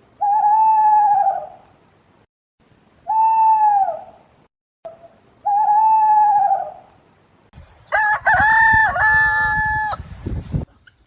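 Three drawn-out, slightly arching bird calls a couple of seconds apart, followed near the end by a rooster crowing.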